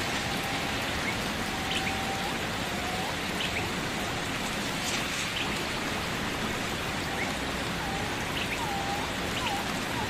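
Steady rain falling, an even hiss of many drops, with faint short pitched calls now and then above it.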